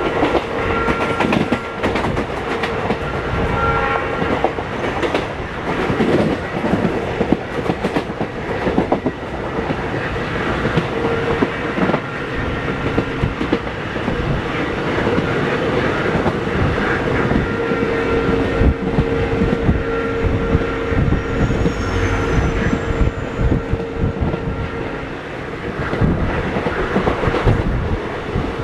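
Passenger train running at speed: a continuous rumble with the clickety-clack of wheels over rail joints, and steady tones that come and go, held longest in the last third.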